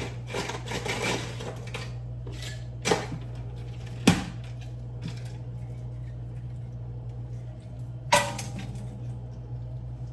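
Scattered knocks and clatters of kitchen items being handled, the loudest about four seconds in and another about eight seconds in, over a steady low appliance hum.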